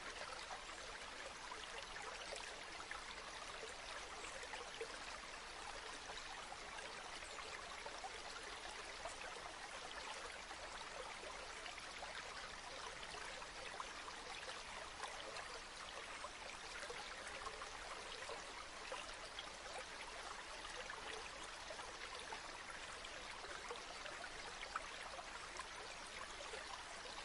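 River water flowing steadily, an even rushing with small burbling splashes throughout.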